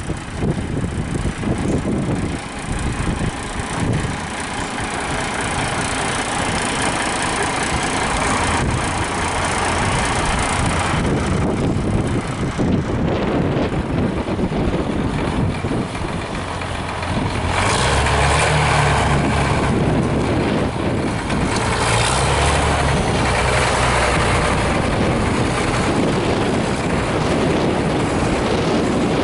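An old truck engine running at a steady low note that becomes louder and clearer about two-thirds of the way in, with uneven gusty noise over it earlier on.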